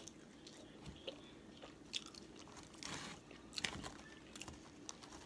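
Close-miked chewing and biting of seafood-boil food, with scattered short crunches and clicks; a slightly longer crunch about three seconds in.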